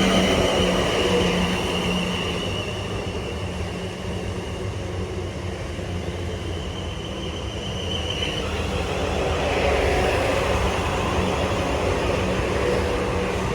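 Passenger train running, with a steady low hum and a steady high whine that cuts off about eight seconds in; the train noise swells again a little later.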